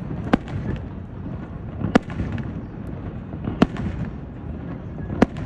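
Aerial firework shells bursting: four sharp bangs about a second and a half apart, over a steady rumble of the ongoing display.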